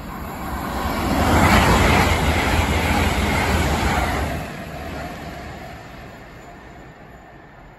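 LNER Hitachi Class 800 Azuma passing through at speed. Its rushing noise, with a low rumble underneath, builds to a peak about one and a half seconds in and holds until about four seconds. It then drops off and fades as the train draws away.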